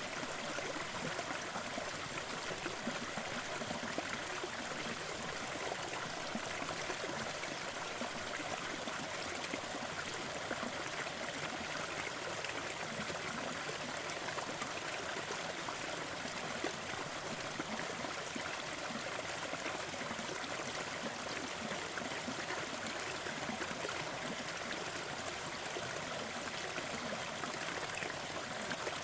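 Waterfall and the stream below it: a steady, even rush of falling and flowing water with a fine splashing texture, unchanging throughout.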